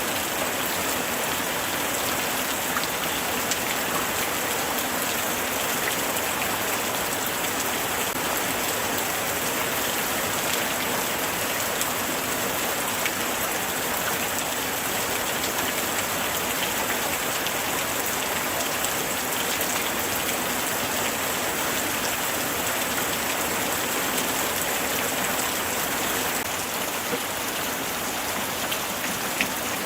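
Steady light rain falling, a constant hiss of many small drops with faint scattered ticks of individual drops.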